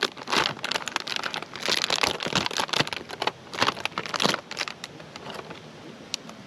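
A food wrapper crinkling and crackling as a wrapped snack is opened by hand: a quick, irregular run of rustles that stops about five and a half seconds in.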